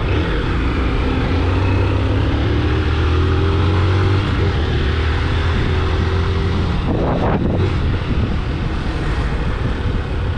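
A vehicle engine running under wind rush on the microphone, its pitch rising slowly as it speeds up during the first few seconds, with a short louder gust about seven seconds in.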